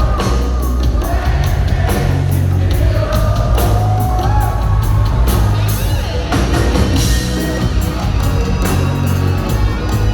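Live reggae band playing, with a heavy bass line, a steady drum beat and a sung vocal melody.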